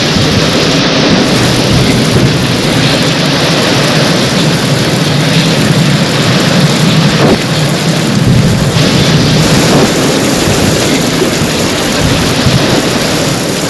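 Heavy rain falling steadily in a thunderstorm, its hiss over a continuous low rumble of thunder.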